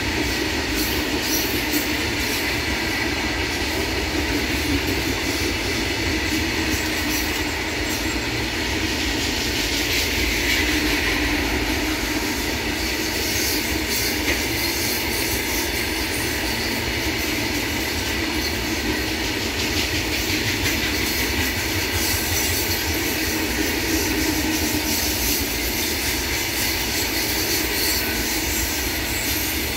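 Long freight train of open steel wagons rolling past at a steady speed: the continuous noise of steel wheels running on the rails, holding even throughout.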